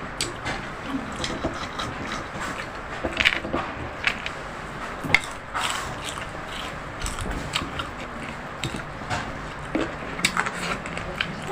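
Close-up eating sounds: chewing and crunching, with irregular sharp clicks of utensils against a plate.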